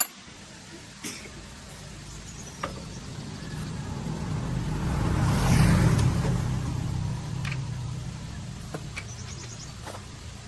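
An engine rumble that grows louder to a peak about halfway through and then fades again, with a few sharp clicks along the way.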